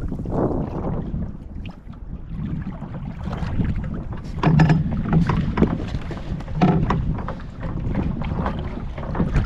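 Irregular knocks and thuds on a fishing kayak while a freshly caught yellowtail is dispatched and handled, the two loudest thuds about halfway and two-thirds of the way in, over wind buffeting the microphone and water against the hull.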